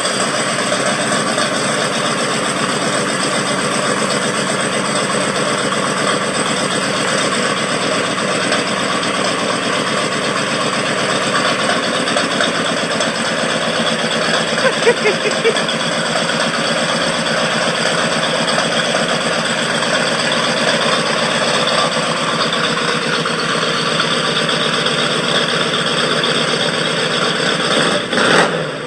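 Chevrolet Corvette V8 idling steadily through a new DIY dual exhaust with Flowmaster mufflers, just after a restart.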